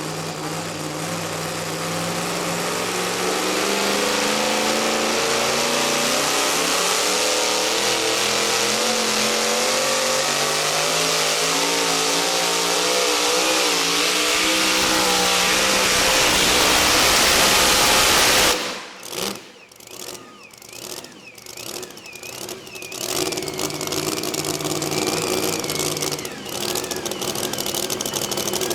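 Modified two-wheel-drive pulling truck at full throttle hauling the weight-transfer sled down the track, its engine note wavering as it pulls. About eighteen seconds in the throttle is cut abruptly at the end of the run, and the engine drops back to a low, uneven running.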